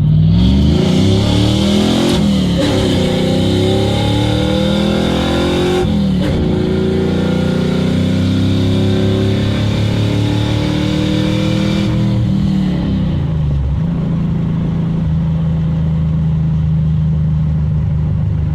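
Carbureted Vortec small-block Chevy V8 with an LT4 hot cam, still cold, revved several times with the pitch rising and falling, then settling to a steady idle about 14 seconds in.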